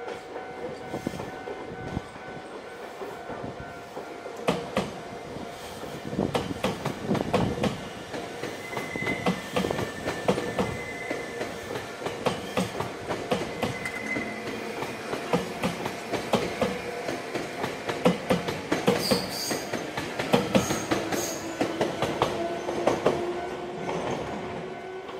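Electric commuter train running on the rails: wheels clacking over rail joints in quick clusters, with brief wheel squeals a few times and a faint motor whine rising slowly near the end.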